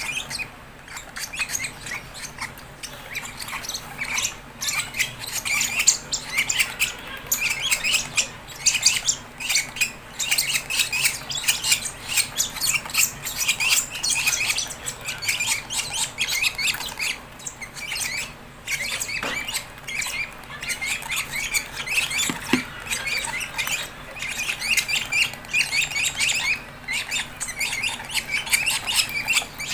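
Fischer's lovebird chicks chirping and squawking in rapid, unbroken high calls.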